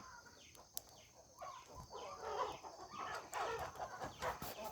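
Chickens clucking, a string of short repeated calls, with a single sharp click about a second in.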